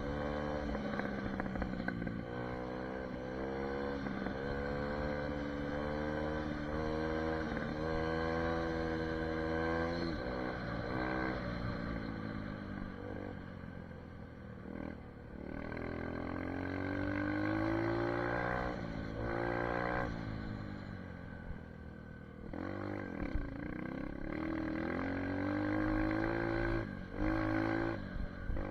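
SSR 150 dirt bike's single-cylinder four-stroke engine running under way, its revs rising and falling again and again as the throttle is worked and gears change. Around the middle there is a longer, slower climb in pitch.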